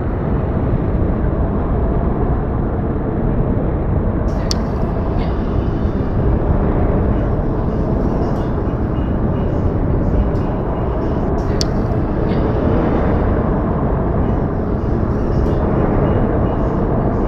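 Steady, low rumbling outdoor noise of a snowy winter ambience recording, without any distinct voice or tune, broken by a faint sharp click about every seven seconds.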